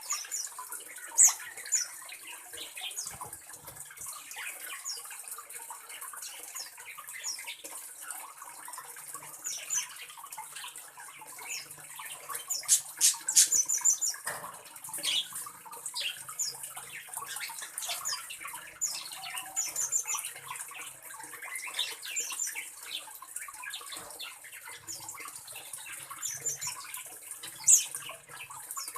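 Quick, sharp chirps and clicks from small birds in an aviary, scattered throughout and densest about halfway, over a steady high hiss.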